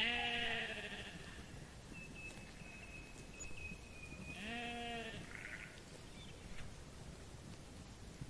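Sheep bleating twice: a loud call lasting about a second at the start, and a shorter one about four and a half seconds in.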